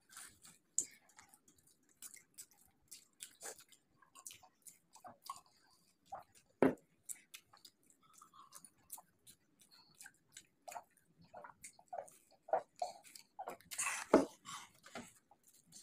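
Close-miked chewing and biting of samosas: irregular crisp crackles and wet mouth sounds, with a louder cluster of bites and crunches near the end.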